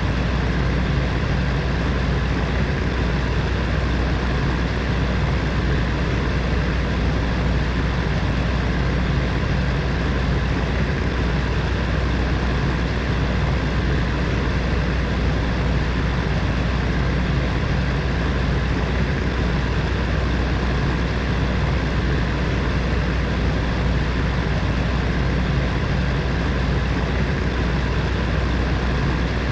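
Electric heater fan running steadily: a constant whooshing hum with a strong low drone and a faint steady motor tone.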